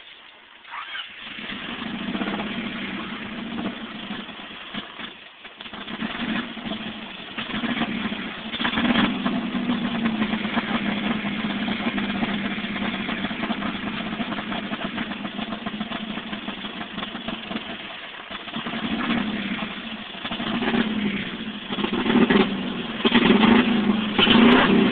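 The blown engine of a 1989 Honda Accord starting and running rough with an uneven clatter. It falters briefly about five seconds in, then keeps running and gets louder near the end.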